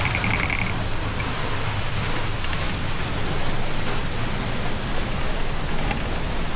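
Waterfall rushing with a steady, even noise. A brief high trill sounds at the very start.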